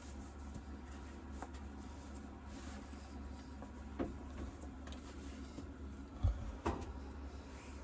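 Quiet interior with a steady low hum, a few light clicks and knocks, and a dull thump about six seconds in.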